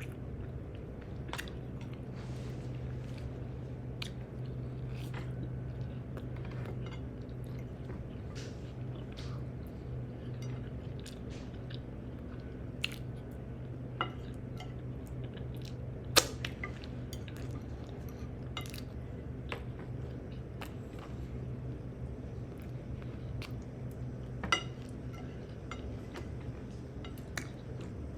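Close-miked chewing and biting of food, with scattered small clicks of cutlery or dishes; the sharpest click comes about halfway through and another near the end. A steady low hum runs underneath.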